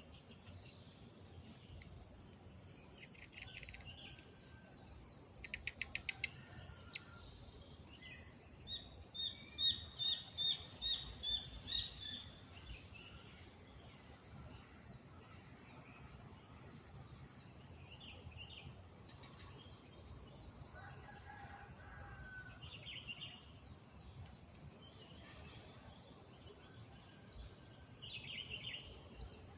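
Morning birdsong over a steady high insect drone: several birds chirping now and then, with the loudest a run of about seven quick repeated sharp notes about ten seconds in.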